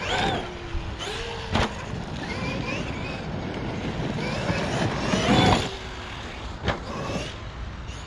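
Traxxas XRT 1/6-scale RC truck's brushless electric motor whining, rising and falling in pitch with the throttle, with a louder surge about five seconds in. Two sharp knocks break in, about a second and a half in and near seven seconds.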